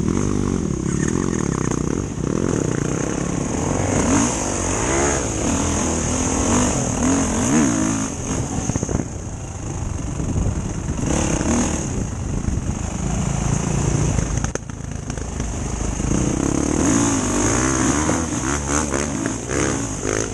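Enduro motorcycle engine being ridden, its pitch rising and falling over and over with throttle and gear changes.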